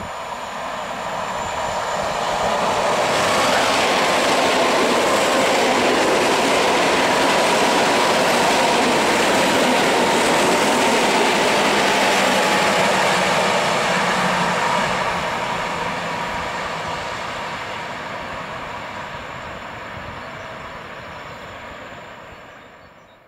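Passenger train of two coupled electric multiple units, an EN71 and an ED72, passing close by at speed. The wheel and rail noise builds over a few seconds, stays loud for about ten seconds as the cars go by, then fades as the train recedes.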